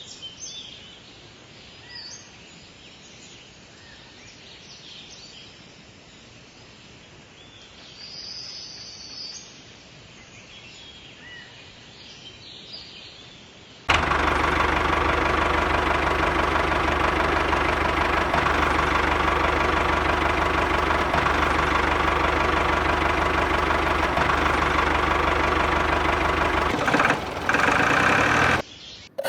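Scattered bird chirps over a quiet background. About halfway through, a small motor starts running loudly and steadily, cutting in abruptly, and stops shortly before the end.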